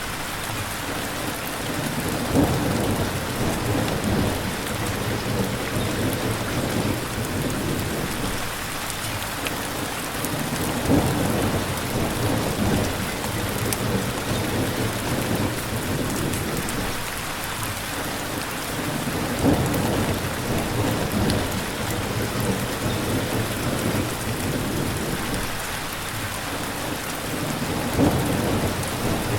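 Steady rain with low rolling rumbles of thunder swelling up four times, about every eight seconds.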